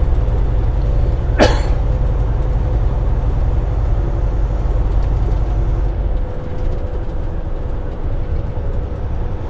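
Semi-truck cab noise: the engine and road drone steadily, with one brief sharp hiss about a second and a half in. The low rumble eases off about six seconds in.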